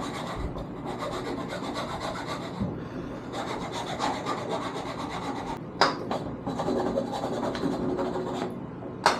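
A hand file rasping against the inside of a spalted maple peppermill body, cleaning it up in several long scratchy passes with short pauses between them. Two sharp knocks, one about six seconds in and one at the end.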